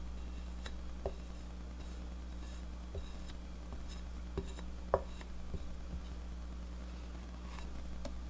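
A few light, scattered clicks and taps over a steady low hum.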